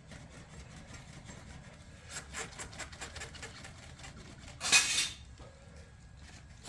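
Stock muffler being worked gently up and down on the exhaust pipe to free it, with faint metal scraping and clicking, and one short, louder rasping hiss about five seconds in.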